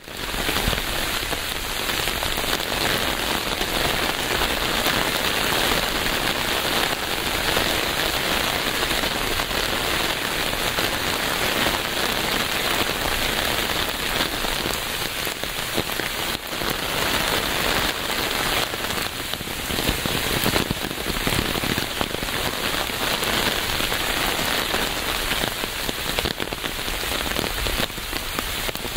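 Steady rain falling, a dense, even patter of many drops, fading in at the very start.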